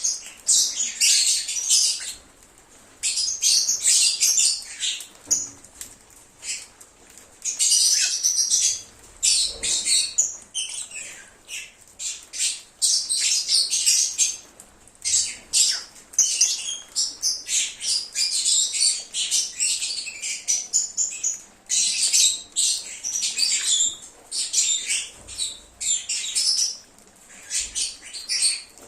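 Lovebirds chattering and chirping: rapid, high-pitched, shrill calls in busy clusters with short pauses between them.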